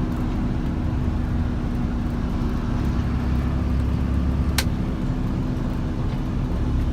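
Steady engine and road rumble of a car heard from inside the cabin, with a constant low hum. A single sharp click sounds a little past the middle.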